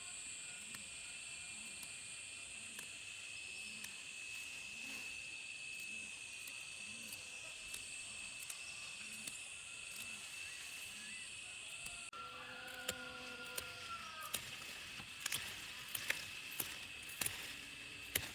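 Steady high-pitched insect trill in the countryside, with soft low pulses about twice a second beneath it. About two-thirds of the way in the sound changes abruptly: a short pitched call, then a string of sharp clicks and snaps.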